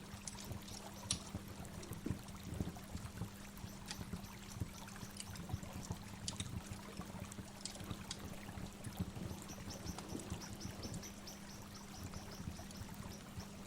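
Waterfall's running water with birdsong: scattered high bird chirps, and from about nine seconds in a rapid run of high chirps, roughly four or five a second. A low steady hum lies underneath.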